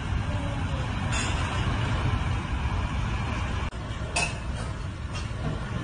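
Hurricane wind blowing hard and buffeting the microphone, a dense low rumble with hiss on top. A brief sharp knock comes about four seconds in.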